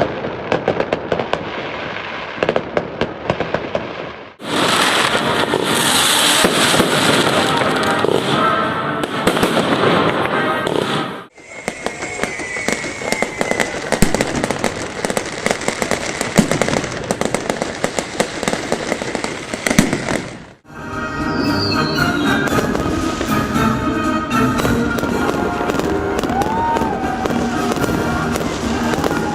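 Festive fireworks display: a dense run of bangs and crackles from bursting shells. The sound is cut sharply three times between edited segments.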